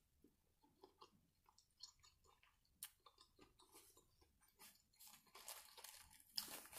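Faint chewing of a soft BBQ chicken sandwich: scattered small wet mouth clicks and smacks. They get denser and louder near the end, where a paper napkin rustles at the mouth.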